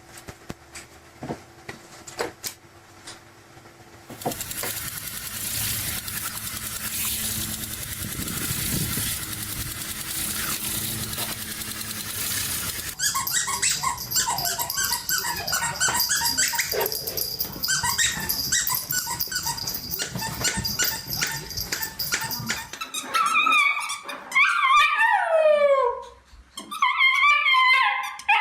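A dog whining and howling in long calls that glide up and down in pitch, loudest in the last few seconds. Before that come a stretch of steady noise and a run of short, chirpy sounds.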